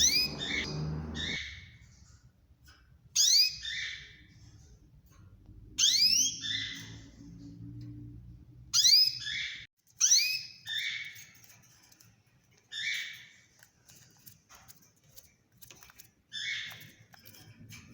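Canaries chirping in short bursts about every two to three seconds, each burst a cluster of high notes with quick upward-sweeping whistles.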